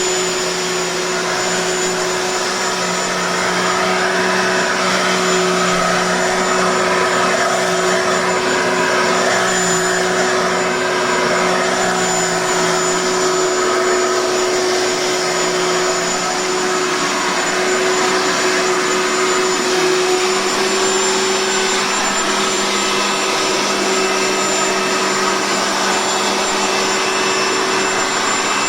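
Bissell Micro Lock upright vacuum cleaner, with its 10.5 amp motor, running steadily. Its pitch shifts slightly a couple of times as it is pushed over the floor.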